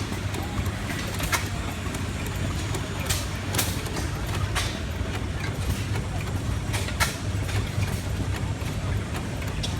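Rider-Ericsson 8-inch hot air engine running: a steady low hum with sharp clicks at irregular intervals.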